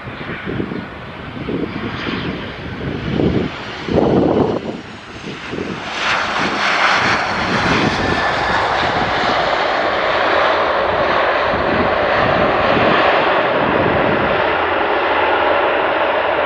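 Airliner engines at high power, a loud steady noise that sets in suddenly about six seconds in and holds. Before that, wind buffets the microphone in gusts.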